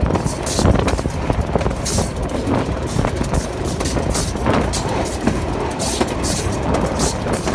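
Moving passenger train, hauled by an RGE-20 diesel-electric locomotive, running along the track: steady rumble and rush of air, with wheels clicking irregularly over the rails.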